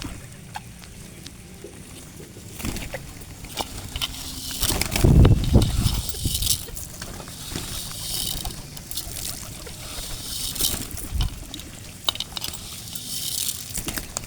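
A flock of pigeons flapping their wings in repeated bursts of fluttering. There is a low rumble about five seconds in.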